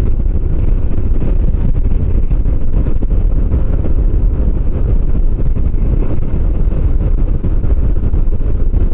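Motorcycle riding along at a steady road speed: the engine runs under a constant low rumble of wind buffeting the microphone.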